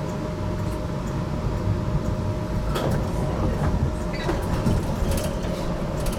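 GTL8 articulated tram running on its rails, heard from inside: a steady low rumble of wheels with a faint constant whine, and a few sharp clicks and squeaks in the second half.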